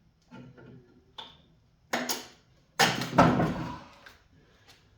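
A run of knocks and clatter from tools and metal parts being handled while working on a lawn tractor's mowing deck, loudest about three seconds in.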